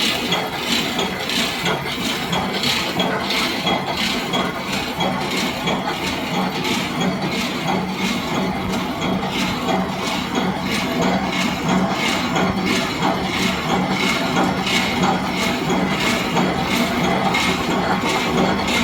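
Automatic multi-point resistance welding machine for thin-wire roll mesh running steadily: a rhythmic mechanical clatter of repeated strokes over a continuous machine hum.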